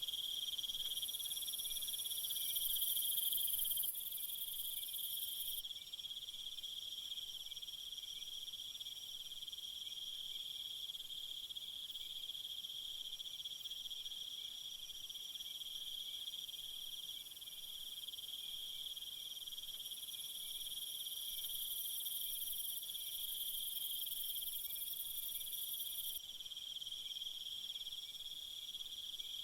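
Steady chorus of crickets and other insects, several continuous trills at different pitches layered together. A very high, shrill layer comes in for a few seconds near the start, cuts off suddenly, and returns about two-thirds of the way through.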